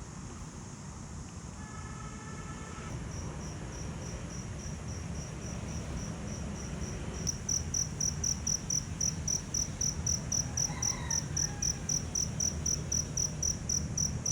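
An insect chirping, a cricket-like high-pitched pulse repeating about three times a second; it starts a few seconds in and grows louder about halfway through.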